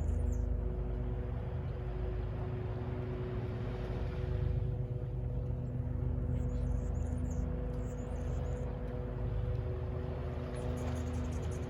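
Steady low rumble of distant city traffic with a constant engine drone, and faint high chirps now and then.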